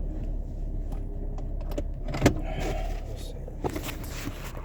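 Low, steady rumble of a car heard inside the cabin, with a sharp click about two seconds in, a short rustle after it, and a few lighter clicks near the end as the rumble eases.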